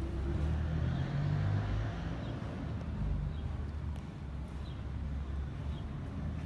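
An engine running with a steady low drone; its pitch rises and it grows a little louder about a second in, then settles.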